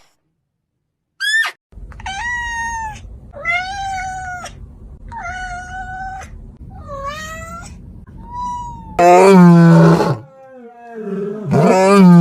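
Cat meowing: a string of about six drawn-out, rising-and-falling meows, then near the end two much louder, deeper calls.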